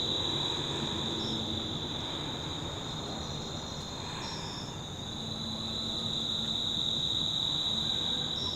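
Insects calling outdoors: a steady, continuous high-pitched drone, with a few brief higher chirps about a second in, around four to five seconds in, and near the end.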